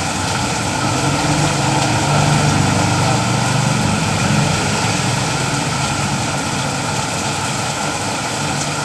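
Steady heavy rain, an even hiss throughout. A low rumble swells and fades in the middle.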